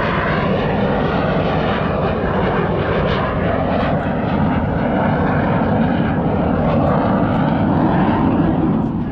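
Jet roar of a twin-engine F/A-18 fighter making a low, slow pass with gear, flaps and tail hook down. It is loud and steady, building a little toward the end, then falls away sharply.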